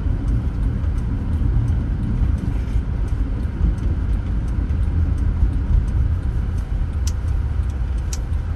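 Car driving along a road, heard from inside: a steady low rumble of tyres and engine, with a faint ticking about twice a second and two sharper clicks near the end.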